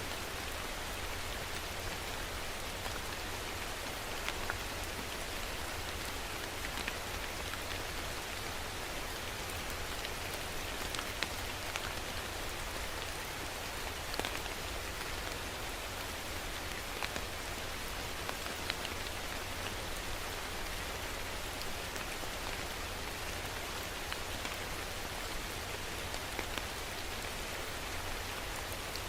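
Steady rain falling on a surface: an even hiss with individual drops ticking sharply here and there.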